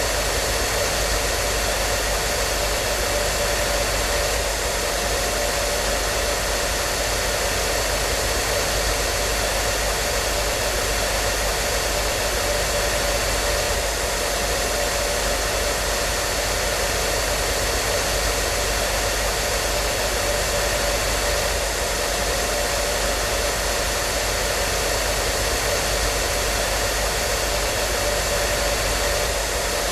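Hair dryer running continuously at a steady setting: an even rushing of air with a faint steady motor whine over it, unchanging throughout.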